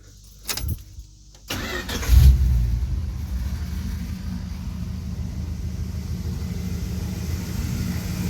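A sharp knock, then the 1973 Dodge D100 pickup's engine cranks briefly on the starter and catches about two seconds in with a short loud burst. It then settles into a steady idle.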